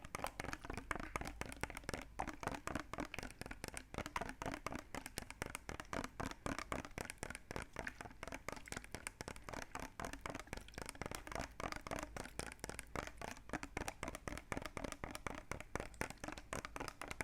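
Rapid wet clicking, ASMR-style: many short, moist clicks a second in a steady, unbroken stream.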